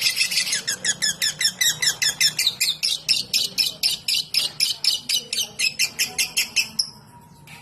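Lovebird singing in the rapid 'ngetik' (typing) style: a fast, even train of short, sharp high chirps, about seven a second, fading out near the end.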